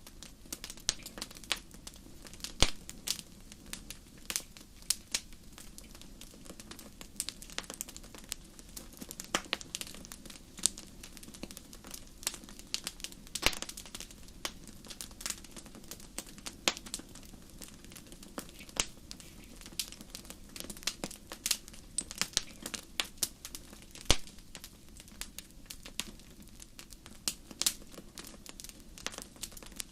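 Wood fire crackling: a dense run of irregular pops and snaps over a low steady hiss, with a few louder snaps now and then.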